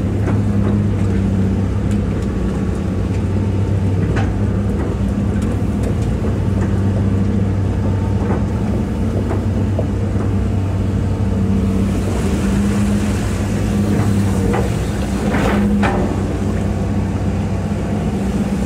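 Hitachi EX200-5 excavator's diesel engine running steadily under digging load, with the hydraulics working and a few clunks from the machine as it moves material.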